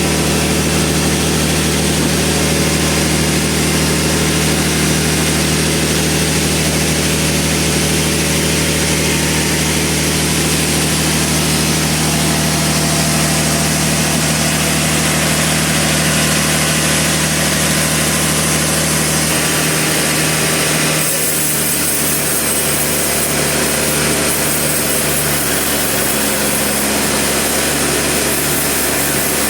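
Sawmill machinery running steadily, a loud engine-like drone with a strong low hum. About two-thirds of the way through, the sound shifts: the low tones change and the hiss above them thins out, as the machine's load changes.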